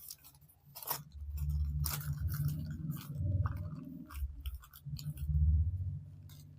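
Paper crinkling and crackling as a folded origami model is squeezed and creased by hand, with dull low handling noise in two stretches, about a second in and again around five seconds in.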